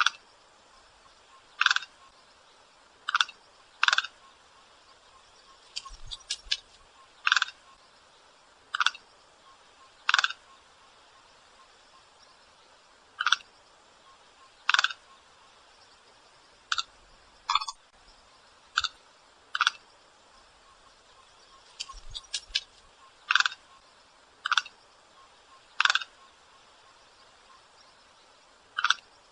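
White stork giving short, sharp single notes, repeated irregularly about every one to three seconds, with a few quick clustered notes in between.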